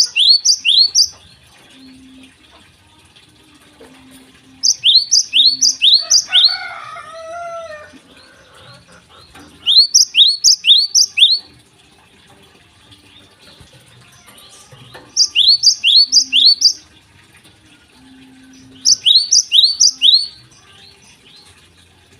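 Gelatik songbird singing loud phrases, each of four or five sharp, high two-part notes, with a phrase about every four to five seconds. A lower warbling call comes in about six seconds in.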